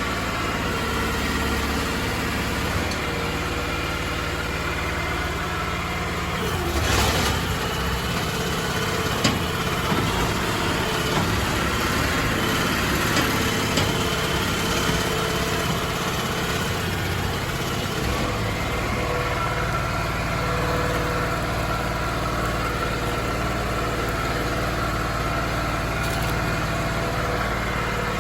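Crawfish boat's engine running steadily, with a brief louder noise about seven seconds in and a sharp click a couple of seconds later.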